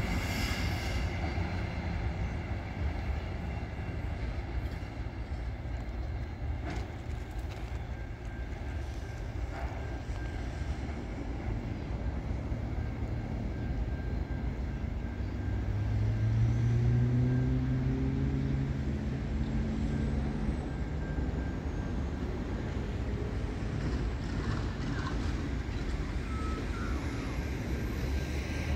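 Low rumble of a double-stacked container freight train rolling away into the distance. Midway a low engine drone swells for a few seconds and fades.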